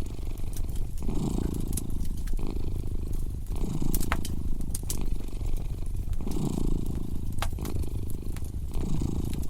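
A cat purring close up, its purr swelling and easing in slow breaths about every two and a half seconds, over a crackling wood fire that pops and snaps at irregular moments.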